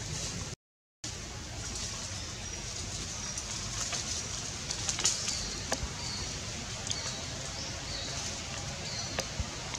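Birds chirping in the tree canopy: short, high, repeated chirps over a steady background hiss, with a few sharp clicks. The sound drops out briefly just under a second in.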